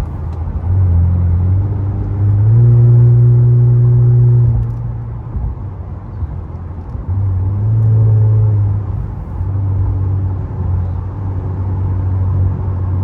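Infiniti Q50's VR30DDTT twin-turbo V6 droning at cruise, with two throttle swells where it gets louder and rises in pitch, about a third of the way in and again past the middle.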